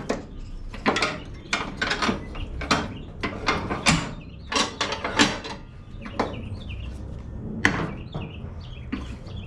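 A wrench working the nut on a riding mower's deck spindle pulley: an irregular run of sharp clicks and knocks, two or three a second.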